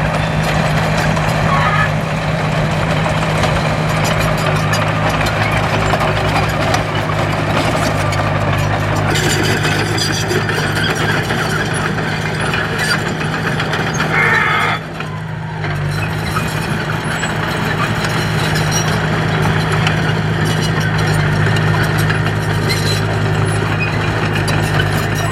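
Heavy construction machine's diesel engine running steadily, with a short dip in level about fifteen seconds in.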